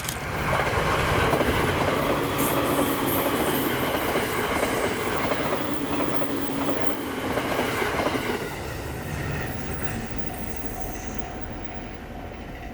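A train running past close by. The noise builds about half a second in, stays loud for several seconds, then fades over the last few seconds.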